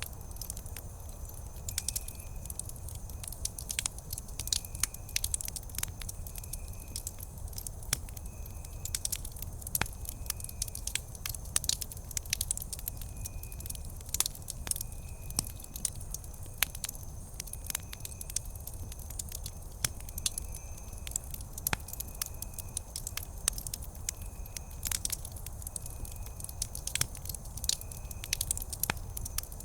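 Wood campfire crackling, with frequent sharp snaps and pops scattered over a low steady rumble of the burning fire.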